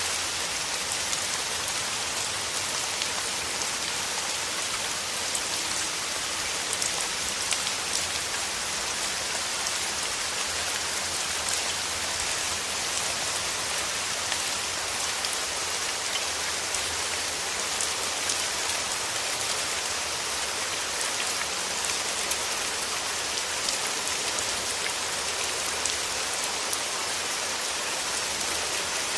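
Steady rain falling, an even hiss of many drops with faint ticks of single drops scattered through it.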